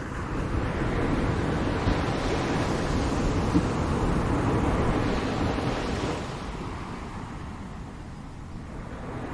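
Ocean waves breaking on a shore: one wave swells in about half a second in, crashes and washes through the middle, then draws back and fades before the next one builds. A low rumble, likely wind on the microphone, runs underneath.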